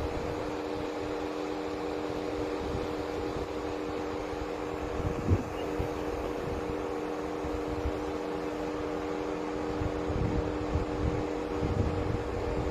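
A steady mechanical hum made of several fixed tones, over a low, uneven rumble, with a single short knock a little past five seconds in.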